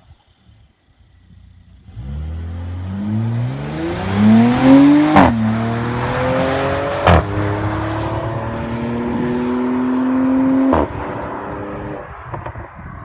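Mercedes-AMG C450 twin-turbo V6 through an AWE Track Edition stainless exhaust, accelerating hard: the engine note climbs, drops back at two upshifts that each give a sharp crack, then holds nearly steady before cutting off with another crack near the end.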